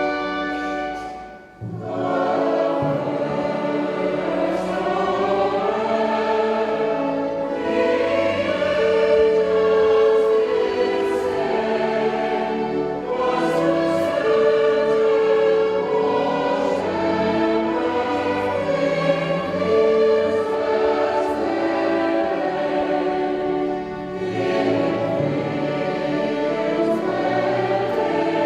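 A choir singing a sacred piece, coming in about a second and a half in after a held chord dies away, with long sustained notes.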